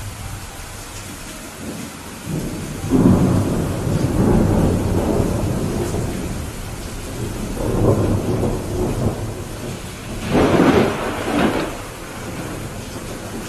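Steady rain with thunder rolling through it. The rumble builds from about two seconds in and swells again several times, with a sharper peal about ten seconds in before it fades back to the rain.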